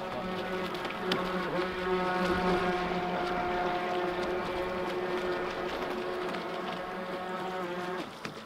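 Radio-controlled boat's brushed electric motor whining steadily at speed, over the rush of water. The sound dips and changes about eight seconds in.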